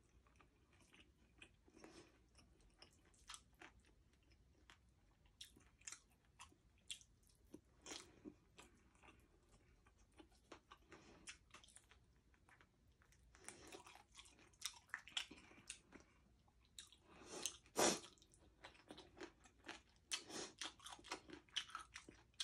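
A person chewing with the mouth close to the microphone: wet smacks and crunches of crispy deep-fried pork leg (crispy pata) and rice. Faint at first, busier and louder in the second half, with one loud crunch about four seconds before the end.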